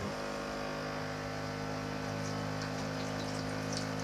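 Small electric water pump running steadily with water flowing through the plumbing, a constant motor hum over the sound of the water.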